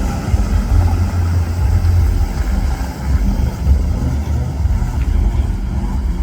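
Wind buffeting the microphone: a loud, uneven low rumble that dips briefly about halfway through.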